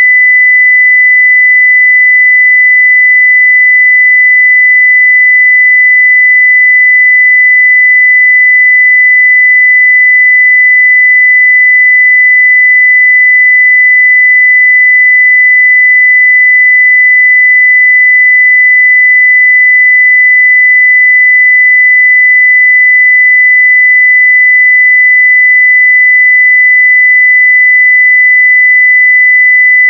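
Continuous 2 kHz sine-wave test tone at full level, one pure steady pitch without any change.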